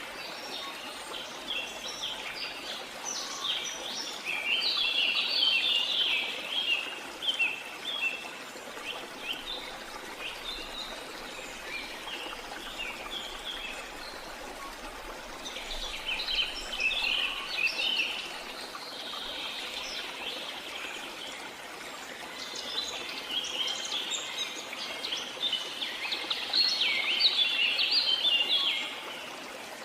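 Steady rush of falling water from a jungle waterfall, overlaid by spells of rapid, high bird chirping that come and go three times, loudest near the end.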